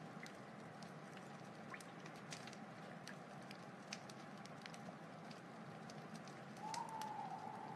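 Wood fire crackling, with scattered sharp pops over a steady low rush. Near the end a thin whistling tone comes in and holds for about a second.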